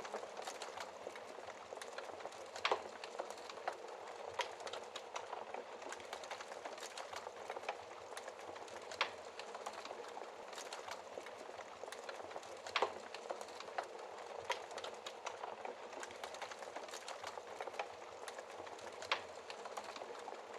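Wood fire crackling in a fireplace: a steady hiss of burning with frequent small pops and a few sharper snaps, the loudest about three seconds in, near the middle and near the end.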